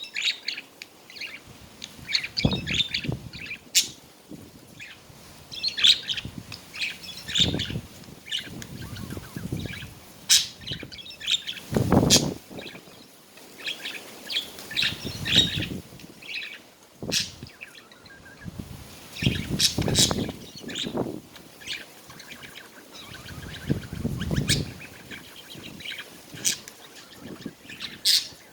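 Budgies chattering and warbling in quick, busy chirps, broken by repeated low thuds and flutters, the loudest about midway.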